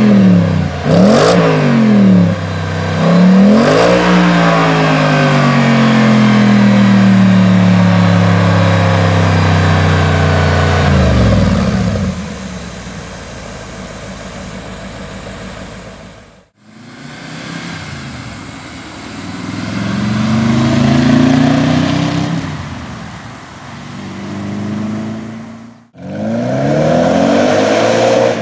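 Audi S4's 4.2L V8 through an AWE cat-back exhaust: three quick revs, then a long loud run whose pitch slowly falls before it drops away to a quieter note. After a cut about halfway, the engine note slowly rises and falls. After another cut near the end, it revs again.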